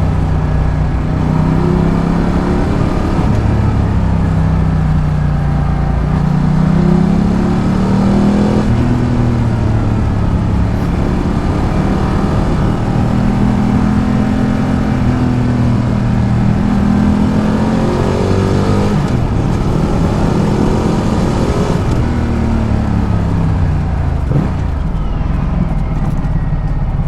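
Ducati Multistrada 1200's L-twin engine running under way, its pitch rising and falling again and again with throttle and gear changes, over steady wind and road noise. Near the end the engine note drops steeply as the bike slows.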